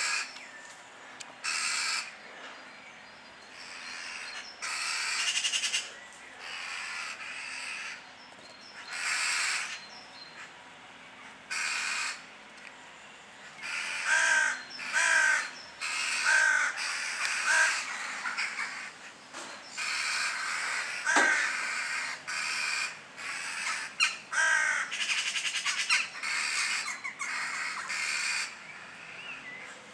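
A group of birds giving harsh, rasping calls again and again, several at once at times, with short gaps between them.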